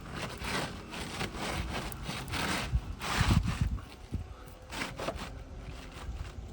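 Asphalt roof shingle being worked back into place under the shingles above, with a run of irregular scraping and rustling strokes and a few light knocks.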